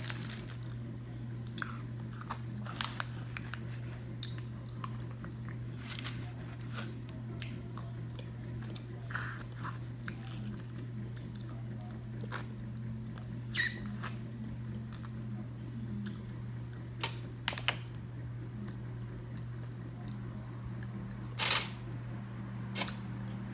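Close-up mouth sounds of a person chewing char-broiled oysters: scattered short wet smacks and clicks, over a steady low hum.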